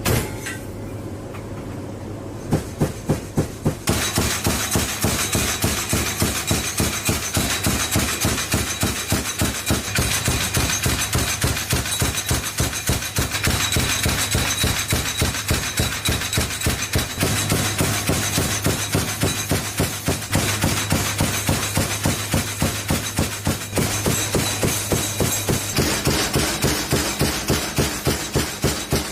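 AC-130J Ghostrider gunship's cannon firing in a long, even string of shots, about four a second, over a steady low drone. The firing starts a couple of seconds in.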